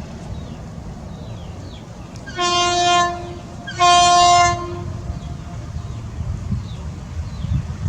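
A train's horn sounding two blasts, the second a little longer and louder than the first, over a steady low rumble.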